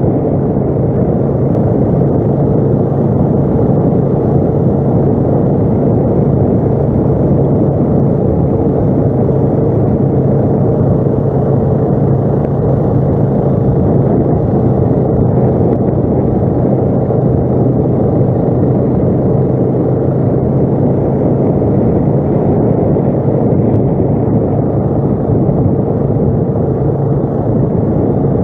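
ATV engine running at a steady pitch while under way, a constant drone with road and wind noise over it.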